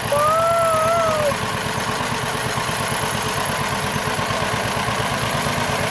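John Deere tractor engine running steadily with an even, rapid pulse, and a child's high voice calling out briefly about a second in.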